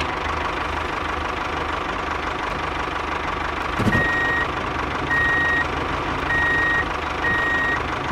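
Engine sound of a miniature tractor running steadily, joined about halfway through by a reversing beeper giving four short high beeps about a second apart as the tractor backs up.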